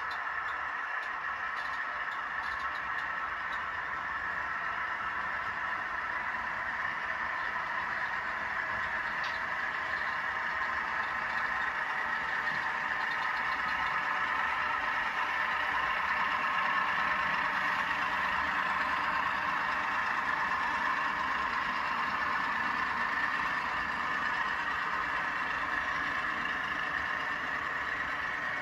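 Model-locomotive sound decoders playing a GE 12-cylinder diesel prime mover, running steadily through small onboard speakers. The sound is thin with little bass and swells a little around the middle.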